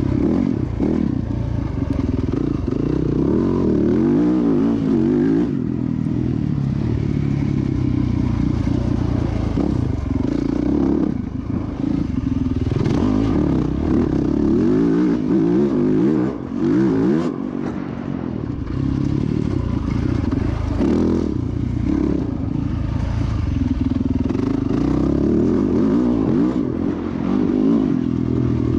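Dirt bike engine being ridden hard around a motocross track, its pitch rising and falling with the throttle and gear changes, with a few brief drops in loudness.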